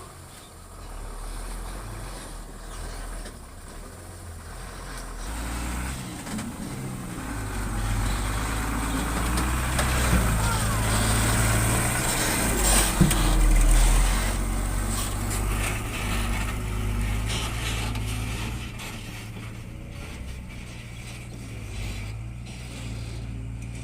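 Sugarcane truck's diesel engine running under load, growing louder to a peak about halfway through and then easing off, with one sharp knock near the loudest point.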